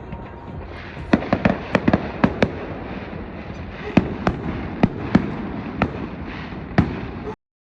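An irregular series of sharp pops and bangs, roughly one or two a second, over a steady rushing noise, typical of a burning festival bonfire with firecrackers. It cuts off suddenly near the end.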